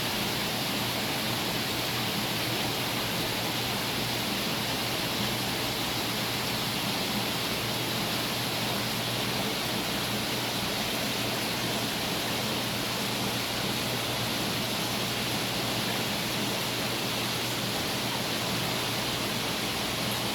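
Steady rushing water of saltwater aquarium circulation and filtration, with a faint low hum underneath.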